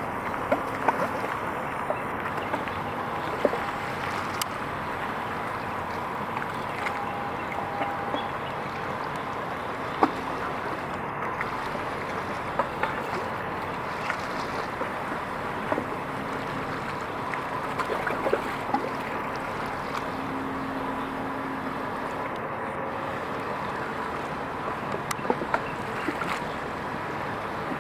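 Steady background noise with many scattered sharp clicks and a few faint, brief tones over it.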